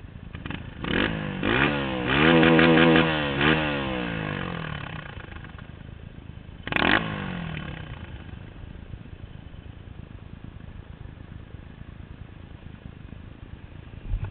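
Trail motorcycle engine revving, its pitch climbing and then falling away over a few seconds. A second short rev comes about seven seconds in.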